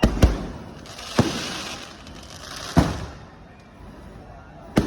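Fireworks going off: about four sharp bangs a second or more apart, with a crackling hiss of sparks around the second bang.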